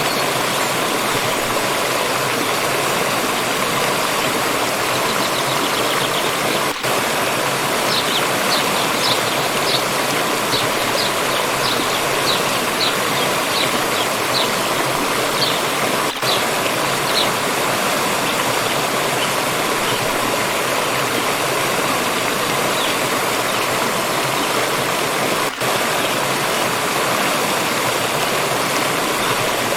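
A stream rushing steadily. Between about 8 and 17 seconds a bird calls over the water, a quick series of short high chirps. The water sound briefly drops out three times, about nine seconds apart.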